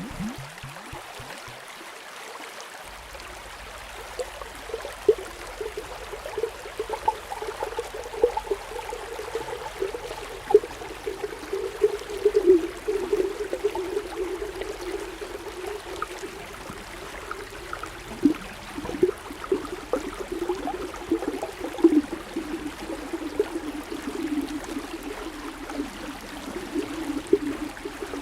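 Underwater bubbling and gurgling water, a steady burble with many small irregular pops.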